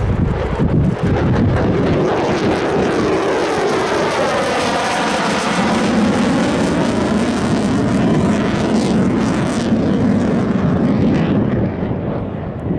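A military aircraft flying past with a loud, steady engine noise. A sweeping phasing whoosh dips and rises as it passes closest, about five seconds in, and the noise fades near the end.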